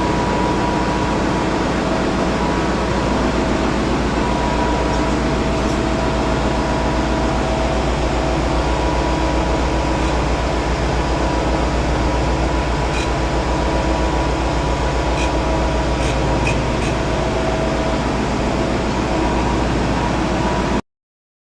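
Marine diesel engine running steadily at a constant speed, a loud even drone with a fast regular pulse. The sound cuts off suddenly near the end.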